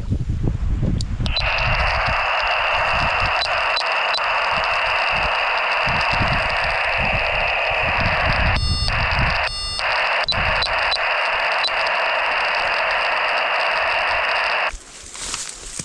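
Handheld VHF wildlife-telemetry receiver's speaker hissing with steady radio static while it is tuned for a moose tracking collar's signal. The static switches on about a second in and cuts off suddenly near the end, with two short beeps about a second apart midway and a few faint clicks.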